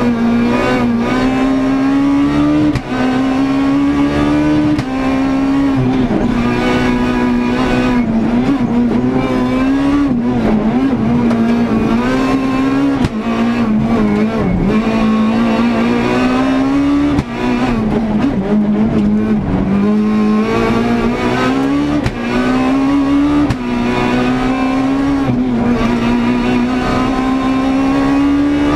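Renault Clio S1600 rally car's high-revving four-cylinder engine heard from inside the cockpit at full attack, the revs climbing and dropping back sharply at each gear change, many times over.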